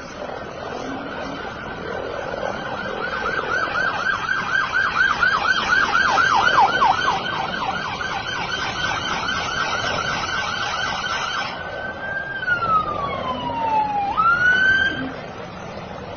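Police siren sounding a steady high tone, switching to a fast yelp for a few seconds and back, then winding down in pitch about 12 seconds in and quickly rising again near the end.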